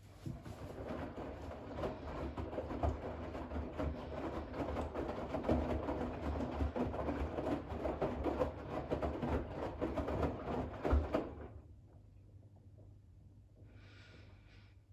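Bosch WAX32GH1 front-loading washing machine tumbling a load of wet towels in the final rinse: water sloshing and towels thudding in the turning drum for about eleven seconds, then the drum stops. A short hiss sounds near the end.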